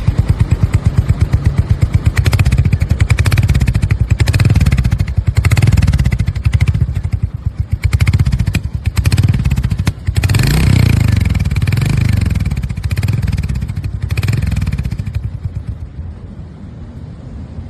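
Royal Enfield Hunter 350's single-cylinder engine revving through a modified aftermarket exhaust, with the revs rising and falling again and again, then settling to a quieter idle near the end.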